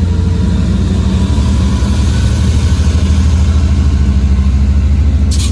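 Loud, steady low rumble of a moving vehicle, with a fast fine flutter through it and two short hisses near the end.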